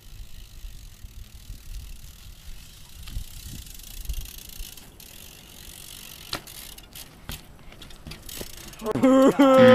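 BMX bike rolling over asphalt, with a low tyre rumble and a few sharp clicks from the bike. Near the end a person lets out a loud, falling exclamation.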